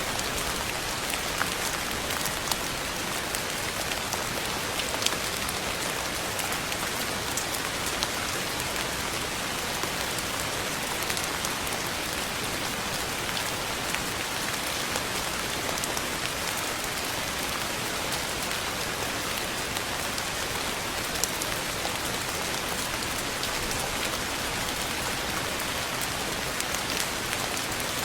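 Steady rain falling on a surface, with scattered individual drop ticks standing out now and then.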